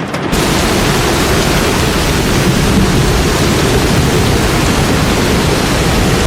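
Loud, steady rushing water noise, without pitch or rhythm, of the kind made by heavy rain or a flood torrent. It cuts in sharply a moment after the start.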